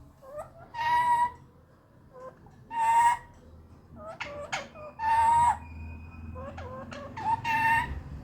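Alexandrine parakeet squawking: four loud, harsh calls about two seconds apart, each lasting about half a second and led in by a few short chirps.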